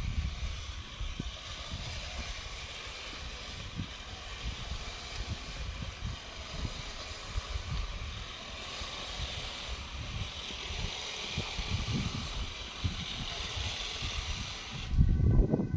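Outdoor street ambience: a steady hiss with soft, irregular low knocks.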